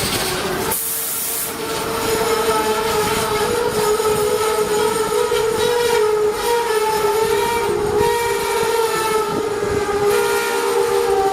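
Train at a station: a short burst of hiss just under a second in, then a long, steady pitched tone with a slight waver that holds for about ten seconds.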